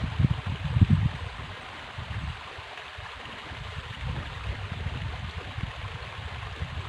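Flowing river water making a steady rushing hiss, with low gusts of wind rumbling on the microphone, strongest in the first second.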